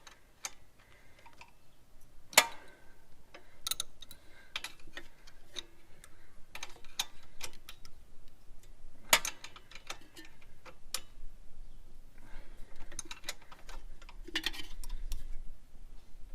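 Irregular sharp metallic clicks and taps of a spanner on bolts and metal parts as a motorcycle front fork leg is fitted back into the bike and tightened, the loudest knocks about two and a half and nine seconds in.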